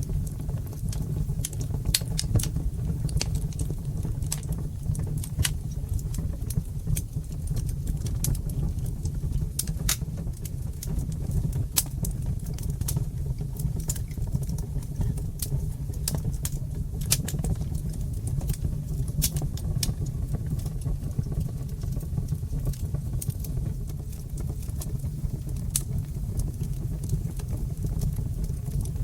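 Fire burning in a brick fireplace, crackling with irregular sharp pops and snaps over a steady low rumble of the flames.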